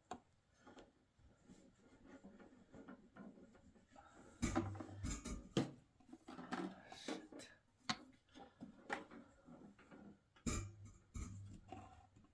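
Scattered knocks, clicks and light clatter of parts being handled, with louder thumps about four and a half seconds in and again about ten and a half seconds in.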